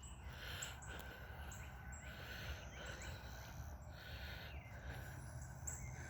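Wild birds chirping and singing: short high notes repeating every half second or so over a faint low rumble.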